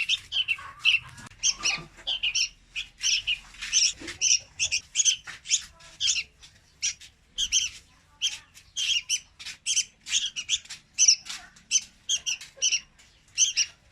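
Young red-whiskered bulbul calling: a rapid, unbroken series of short, harsh chirps, about three a second.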